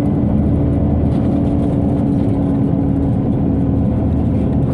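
Inside a Scania OmniCity city bus: the ventilation system and engine drone steadily, with a constant hum over a low rumble.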